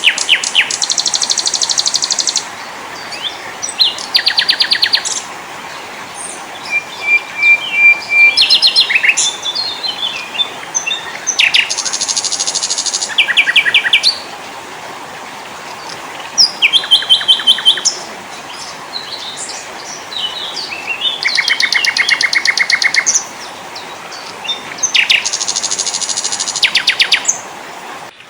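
Small songbirds of several kinds singing in turn: a series of rapid, dry trills a second or two long, some high and some lower, with a short clear whistled note about seven seconds in, over a faint steady hiss.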